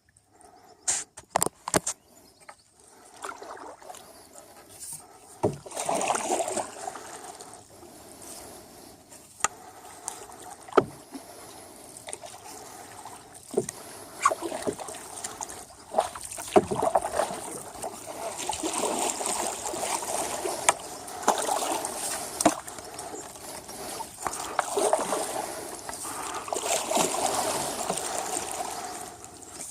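Canoe paddling: the paddle swishing and splashing through river water in repeated swells lasting a few seconds each. Scattered sharp knocks against the canoe come between them.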